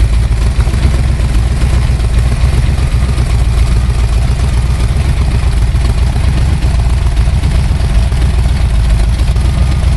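Ford 427 FE side-oiler V8 big block, stroked to 482 cubic inches with two four-barrel carburettors, idling steadily and not yet warmed up.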